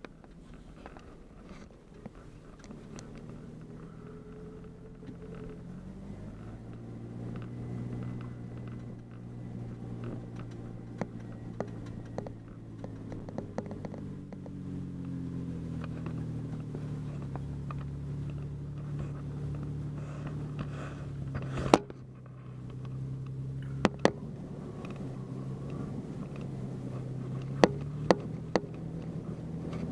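A vehicle's engine pulling along a rough dirt trail, its note rising a few seconds in as it climbs and settling lower later on. Several sharp knocks come through, the loudest about two-thirds of the way through.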